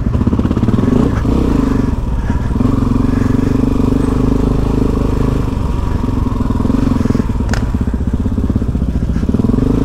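Suzuki DR-Z400E's single-cylinder four-stroke engine running loudly as the bike is ridden slowly off-road, with small rises and dips in revs as the throttle is worked.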